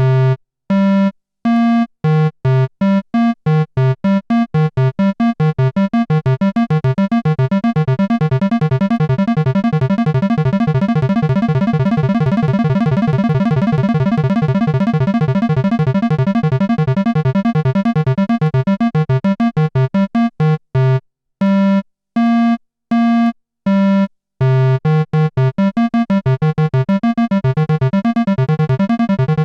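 Moog Grandmother analog synthesizer arpeggiator playing short, separate notes. The rate speeds up from about one note a second to a fast blur of notes, slows back to single notes a little past two-thirds of the way in, then speeds up again near the end.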